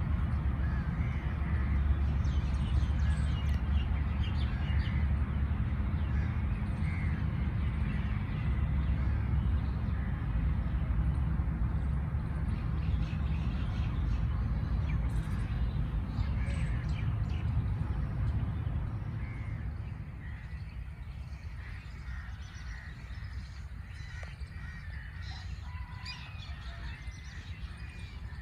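Several birds calling and chirping, short scattered calls throughout, over a steady low rumble that fades about twenty seconds in.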